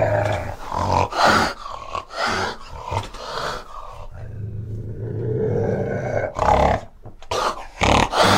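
Fishing cat giving a series of short, harsh, throaty calls, with a pause in the middle, over a steady low hum.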